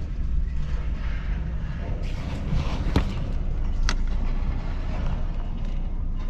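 Pickup truck cab noise: a steady low engine and road rumble, with two sharp clicks about three and four seconds in.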